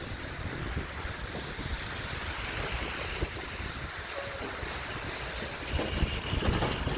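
Wind buffeting the microphone in a snowstorm: a gusty low rumble over a steady hiss, growing a little louder near the end.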